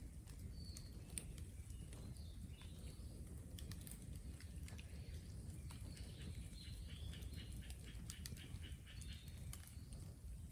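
Faint, irregular crackling and ticking from a smouldering bonfire of raw, green bamboo, with small birds chirping in the background, most busily a little past the middle. A low rumble runs underneath.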